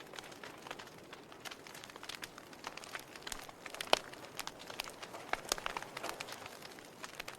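Logs burning in a fireplace, crackling with irregular sharp pops and snaps over a soft hiss. The loudest pop comes about four seconds in.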